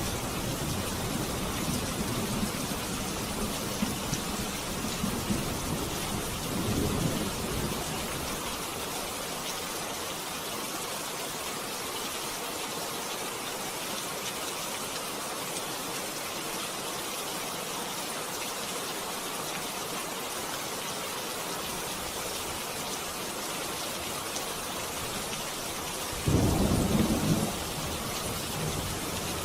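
Steady rain with thunder rumbling low: one rumble fading out at the start, another around seven seconds in, and a louder roll near the end.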